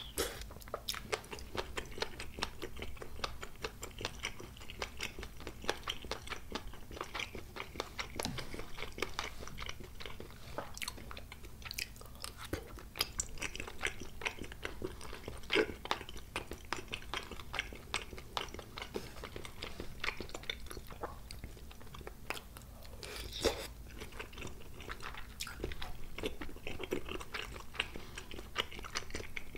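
A person chewing a mouthful of spicy tteokbokki close to the microphone: a steady run of small chewing clicks and smacks, with a few louder pops about halfway through and again later.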